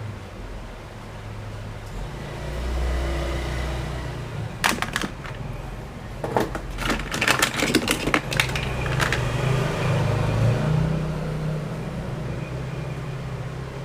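Hard plastic toys clattering and clicking as they are handled, in a burst of sharp clicks and rattles from about four and a half to nine seconds in, over a low steady hum.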